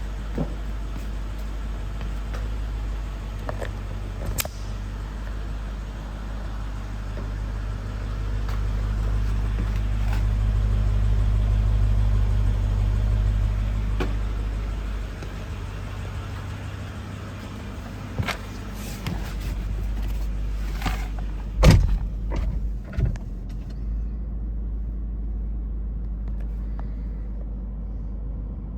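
Mercedes-Benz CLK55 AMG's 5.4-litre V8 idling steadily after a cold start, with a deep even rumble that swells slightly in the middle. Several knocks and clicks come in the second half, the loudest a sharp thump a little over three quarters of the way in.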